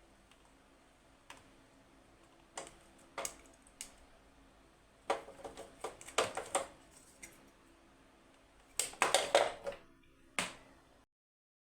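Irregular sharp clicks and knocks, like small hard objects being handled and set down, with a quick run of them about five seconds in and a louder cluster near the end. The sound cuts off abruptly to silence just before the end.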